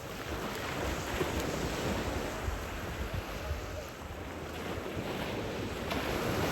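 Sea waves washing onto a beach, swelling a little near the end, with wind rumbling on the microphone.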